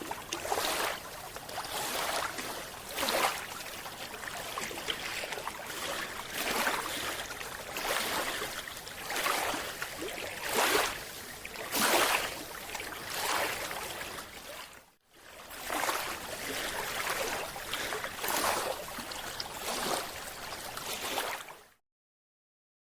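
Repeated surges of bubbling hiss every few seconds, typical of a scuba diver's regulator exhaling bubbles, heard underwater. The sound breaks off briefly about two-thirds of the way through and cuts off near the end.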